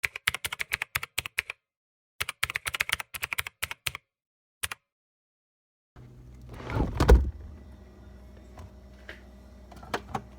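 Rapid typewriter-style key clicks in two quick runs, then a single click, with dead silence between them. Then room sound comes in, with a loud rustling thump about seven seconds in.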